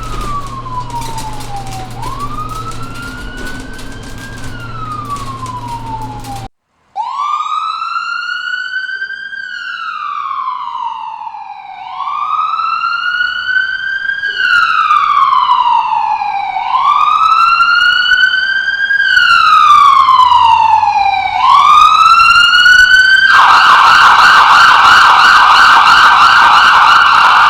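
Emergency vehicle siren sound effects: a wailing siren whose pitch climbs quickly and slides slowly down about every two seconds, over a low engine hum. After a short break a second wailing siren starts, and near the end it switches to a fast warbling yelp.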